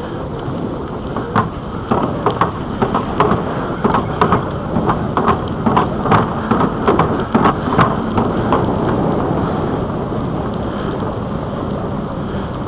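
Bicycle riding on a trail: steady wind and rolling noise, with a quick run of irregular clicks and rattles from about a second and a half in to about eight and a half seconds, as the bike jolts over bumps.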